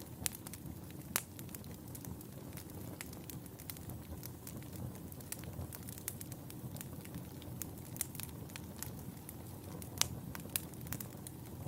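Wood fire in a fireplace crackling: a steady low rumble of flames with irregular sharp pops and snaps, two of them louder, about a second in and near the end.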